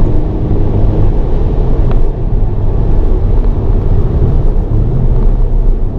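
Hyundai Avante N (Elantra N) 2.0-litre turbocharged four-cylinder engine running hard at circuit pace, with a steady low rumble of engine and road noise heard from inside the cabin.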